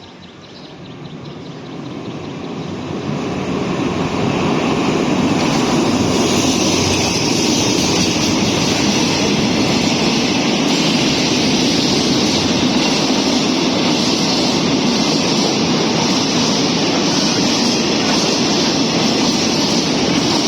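Diesel-hauled passenger train approaching and passing through a station: a rumble that grows loud over the first few seconds, then holds as a steady, dense noise of wheels on rails, with a high hiss over it.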